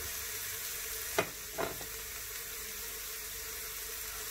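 Chicken and vegetables sizzling in oil in the steel pot of an electric pressure cooker, a steady hiss. Two brief knocks come about a second in.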